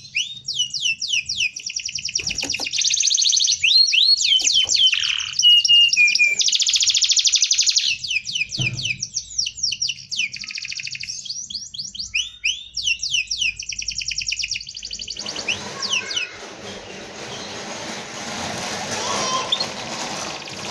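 Domestic canary singing a dense, high song of fast rolling trills and quick rising and falling whistles. About three-quarters of the way through, the song stops and a steady, broad noisy sound takes over.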